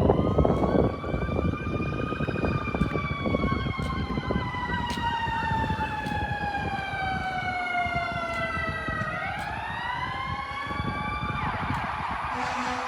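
Fire truck siren wailing: it rises over the first two seconds, falls slowly for several seconds, then climbs again, while a second siren warbles faster underneath for a few seconds. A rushing noise takes over near the end.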